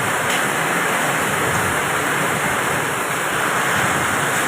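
Heavy rain mixed with hail in a strong wind, a dense steady rushing hiss.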